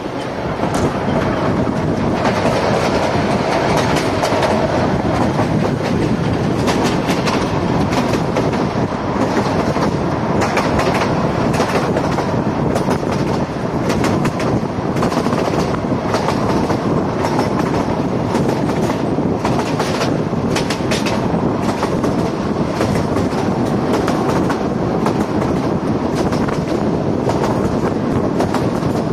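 Narrow-gauge passenger train running at speed, heard from an open coach window: a steady rumble and rush of wheels on rails with frequent clacks as the wheels cross rail joints.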